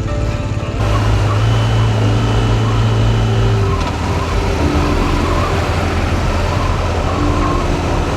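Motorcycle engine running steadily while riding, with wind and road noise. The engine note rises about a second in and drops back a little before four seconds, as the throttle or gear changes.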